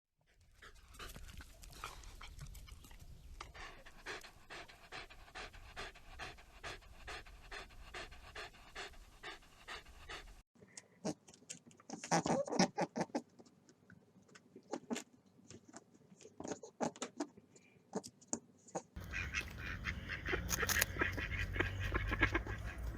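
A dog panting in quick, evenly repeated breaths. The sound changes abruptly twice, as separate animal clips follow one another, with a louder burst about twelve seconds in.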